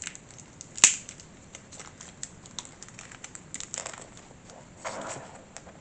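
Light clicks and rustling from small model parts and a tiny Allen key being handled, with one sharp click about a second in.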